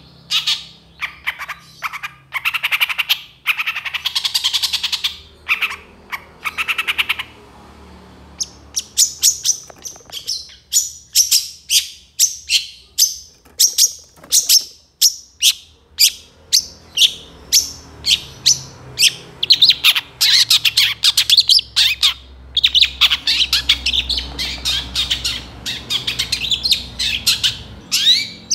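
Long-tailed shrike (cendet) singing in full voice: harsh, scratchy squawking phrases at first, then long rapid runs of sharp, high chattering notes, several a second, that keep up to the end.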